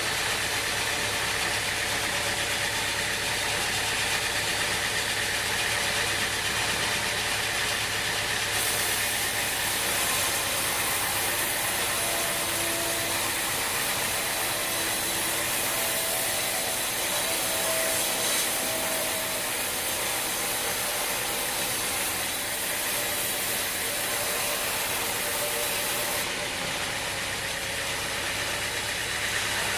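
Sawmill machinery running steadily with an engine-like drone. A high hiss joins about nine seconds in and stops a few seconds before the end.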